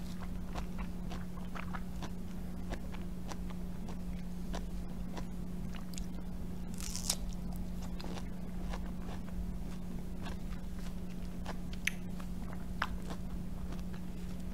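Close-miked chewing and biting of firm pre-cut mango pieces: soft wet mouth sounds with scattered small clicks, and a brief sharper noise about seven seconds in. A steady low hum runs underneath.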